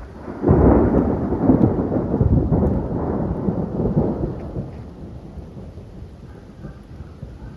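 Thunder rumbling: a sudden loud clap about half a second in that rolls on in several swells for about four seconds, then fades.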